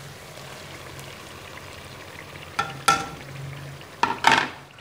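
Chicken and potatoes sizzling steadily in a metal pot as yogurt is added. In the second half a spoon knocks sharply against the metal about four times, in two pairs.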